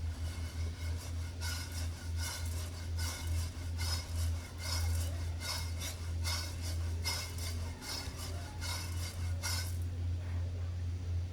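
Coffee beans rattling and clicking in a roasting pan for about eight seconds, over a steady low hum.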